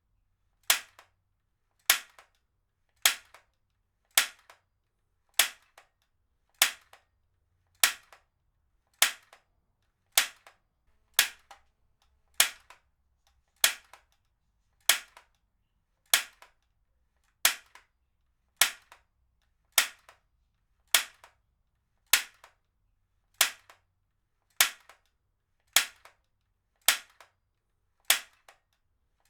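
Heavy-duty stapler fired again and again at a steady pace, a little more than once a second. Each shot is a sharp snap, followed shortly by a faint second click.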